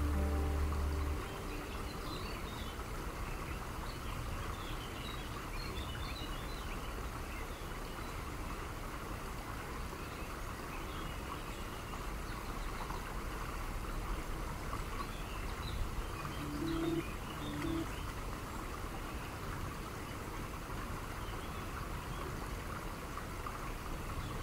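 Birds chirping sparsely over a steady background hiss, a nature-ambience passage; the music before it fades out about a second in. Two short low notes sound about two-thirds of the way through.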